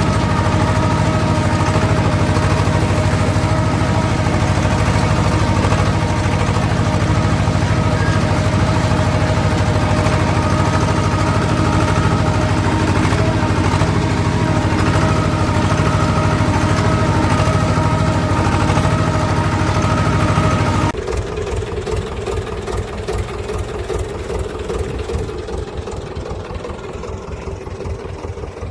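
Swaraj tractor's diesel engine running steadily, then about two-thirds of the way through it drops suddenly to a quieter, slower idle with its separate firing beats heard.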